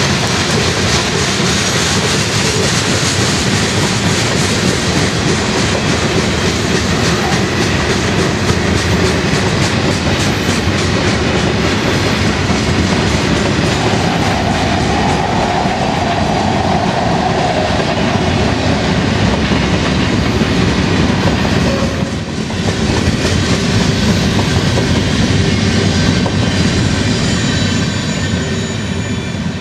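Freight train cars rolling past on the rails: a steady rumble with quick clicks from the wheels over rail joints. About halfway through there is a brief higher-pitched wheel squeal.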